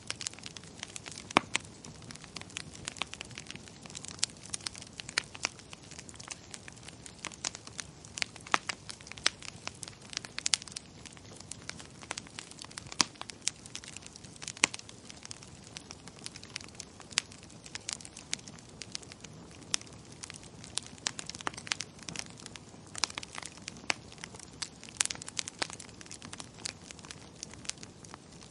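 Wood fire crackling in a fireplace: irregular sharp pops and snaps, a few of them loud, over a soft steady hiss.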